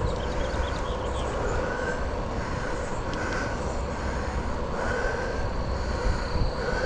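Steady rumble and hiss of a Specialized Sirrus X bicycle being ridden on a wet trail: wind buffeting the handlebar-mounted phone's microphone over the tyre noise. Short higher tones recur about once a second throughout.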